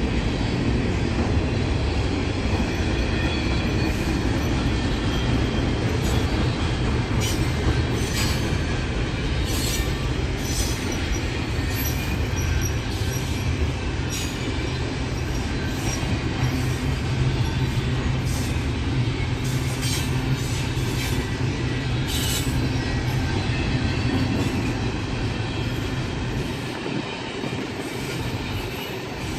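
A train rolling past on steel rails: a steady rumble of wheels on track, cut through again and again by short, high wheel squeals. It fades a little near the end.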